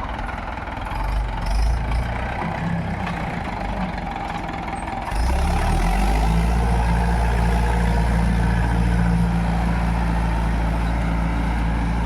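Tractor engine running. About five seconds in it revs up and then holds a louder, steady pitch.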